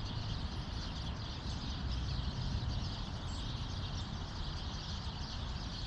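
Steady rush of flowing creek water, an even hiss with no single events standing out.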